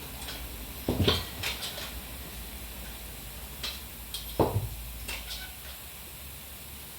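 Metal tools and parts clinking and knocking while a motorcycle rear wheel is being worked on. There are two heavier knocks about three and a half seconds apart, with light clicks between them.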